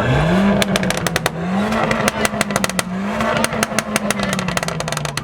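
A car's engine accelerating hard through the gears: its pitch climbs three times, with a short dip at each shift. Many sharp cracks and pops sound over it throughout.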